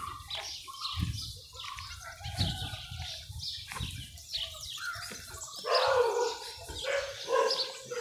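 Birds chirping throughout in many short, quick falling notes, over low thuds of footsteps on a path. About six seconds in, a louder, longer pitched animal call rises above them.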